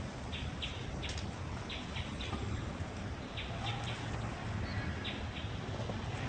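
Short high-pitched chirps repeating unevenly, two or three a second, over a steady low rumble of outdoor background noise.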